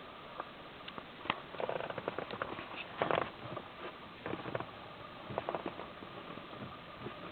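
Car clutch pedal pressed and released several times, giving irregular soft clicks and knocks from the pedal mechanism but no squeak: the pivot has been lubricated with Würth HHS 2000 adhesive synthetic grease. A faint steady high tone runs underneath.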